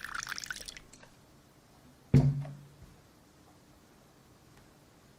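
Close-miked crackling from an ASMR eating video, dense fine ticks for about a second, then quiet until a single sharp knock with a short low ringing tone about two seconds in.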